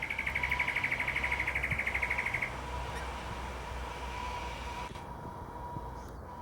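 A bird call: a rapid, evenly pulsed, high trill lasting about two and a half seconds, over a steady low rumble.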